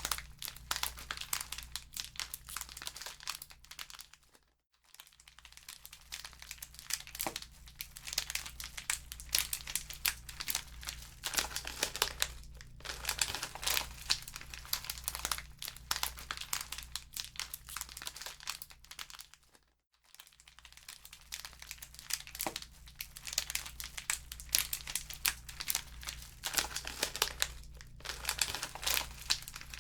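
Wood fire burning in a fireplace, crackling and popping with dense, irregular snaps over a faint low hum. The crackle fades almost to nothing twice, briefly, about five and twenty seconds in.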